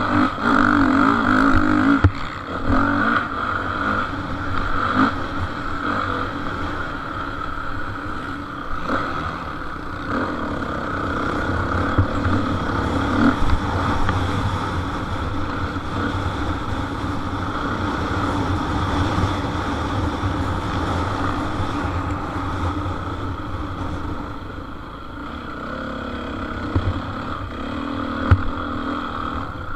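Motocross bikes racing, their engines revving up and down without a break, loudest in the first two seconds.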